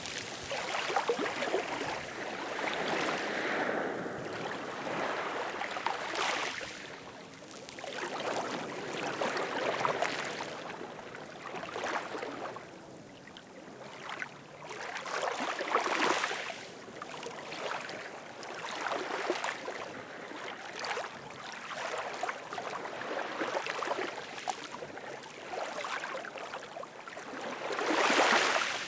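Ocean surf washing in and out: a rushing noise that swells and fades every few seconds, with one louder wave near the end.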